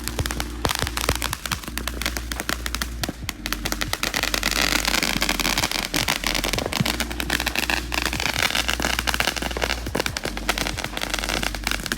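Fireworks going off: a dense, rapid string of cracks and pops, with a wavering whistle through the middle.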